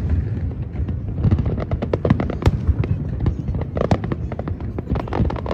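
Aerial display fireworks going off: a rapid, irregular string of sharp cracks and bangs over a continuous low rumble.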